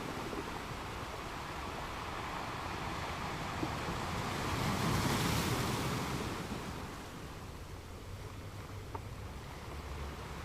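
Ocean surf washing steadily. About halfway through, a wave breaks and swells louder for a couple of seconds, then recedes.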